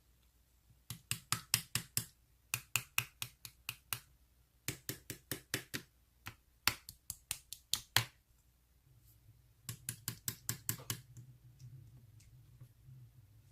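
Slime being squeezed and pressed by hand, giving runs of sharp clicking pops, about six a second, in five bursts of a second or so with short pauses between them. A faint low rustle follows near the end.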